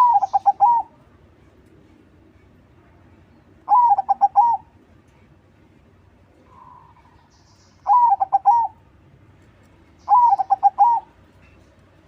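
Crossbred zebra dove (perkutut crossing) singing its cooing song: four short phrases a few seconds apart, each an opening note followed by a quick run of rolling coos.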